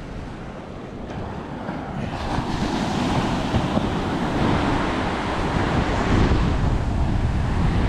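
Sea surf washing onto the beach, with strong wind buffeting the microphone in low rumbling gusts; the wash grows louder about two seconds in.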